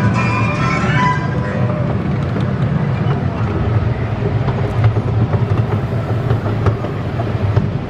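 Small amusement-park circus train rolling on its narrow-gauge track: a steady rumble with scattered clicks of the wheels on the rails. Ride music fades out about a second in.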